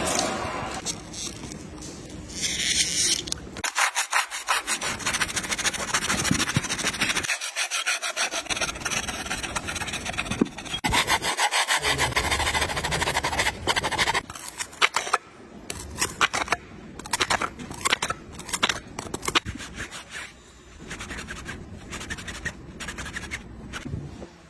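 Continuous rapid rasping and scraping of metal being worked on a Komatsu PC120 excavator's swing ring during its restoration, with short pauses and uneven strokes.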